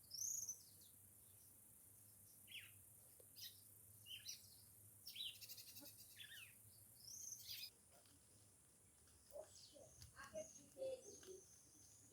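Wild birds of the caatinga calling: a string of short chirps and whistled calls that sweep up and down in pitch, with some lower notes near the end. A steady high-pitched hiss runs underneath and fades about two-thirds of the way in.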